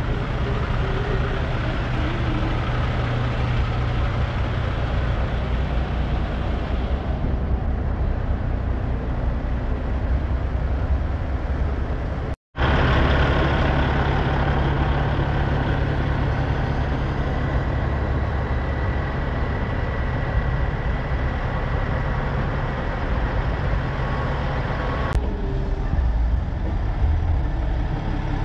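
Diesel semi-truck engines idling, a steady low rumble, broken by a momentary gap about halfway through.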